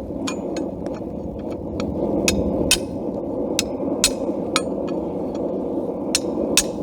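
Hammer blows on hot steel on an anvil: an irregular run of about fifteen sharp strikes with a brief metallic ring, some heavy and some light taps. A steady low rushing noise runs underneath.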